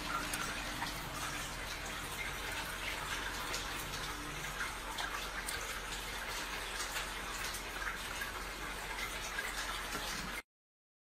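Steady rain, an even rushing noise with many small drop ticks through it, cutting off suddenly about ten and a half seconds in.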